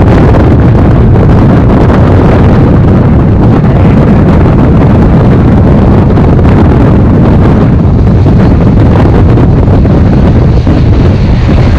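Heavy wind buffeting on a microphone held out of a moving express train, over the steady rumble of the coach running along the track.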